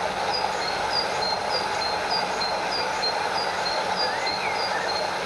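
Stream water rushing and splashing steadily over a small waterfall, with a regular series of short high chirps alternating between two pitches on top, and a couple of rising whistled calls about four seconds in.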